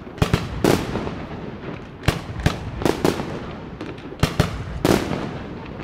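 Aerial fireworks shells bursting: about nine sharp bangs at uneven intervals, several in quick pairs, each trailing off in a rumbling echo.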